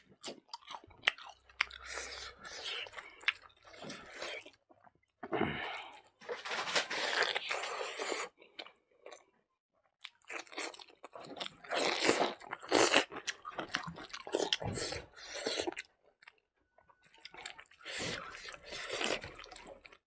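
A person chewing and crunching crisp fried food close to the microphone. The sounds come in several bouts separated by short pauses.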